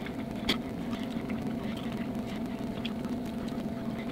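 A steady low hum with a faint higher tone over it, with a few soft clicks and taps, the sharpest about half a second in.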